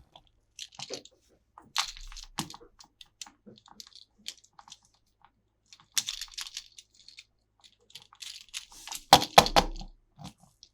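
Toy packaging being handled and opened: plastic crinkling and crackling with sharp clicks, loudest in a dense burst a little past nine seconds.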